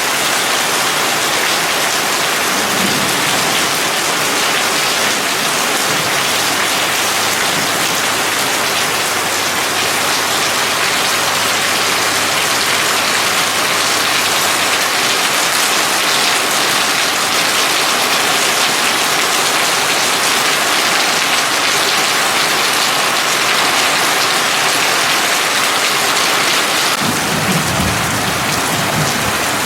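Heavy rain falling steadily, a dense, even hiss. Near the end, a low rumble of thunder.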